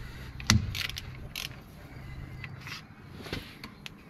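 Scattered metal clicks, knocks and short scrapes from hand-tool work on a brake caliper and pads, the loudest a thump about half a second in.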